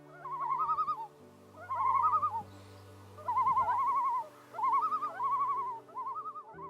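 Common loons giving quavering tremolo calls, several bursts of about a second each that overlap one another, over soft sustained background music.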